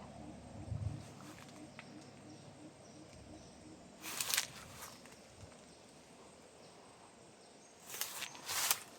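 Faint outdoor garden ambience, with two short bursts of rustling hiss about four seconds apart.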